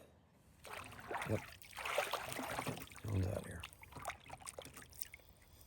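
Water splashing and trickling beside a kayak, with scattered small knocks and clicks of handling in the boat and a dull thump about three seconds in.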